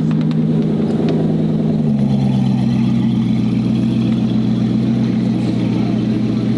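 A car engine running steadily at a constant speed, its pitch stepping down slightly about two seconds in and then holding.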